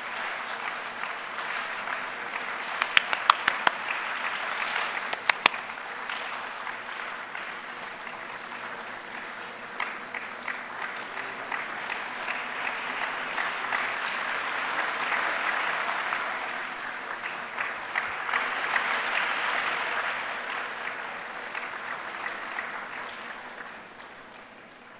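A large audience making the sound of rain with their hands, many hands clapping and patting at once in a dense patter. A few sharp cracks stand out about three to five seconds in. The patter swells and ebbs, then dies away near the end like a shower passing.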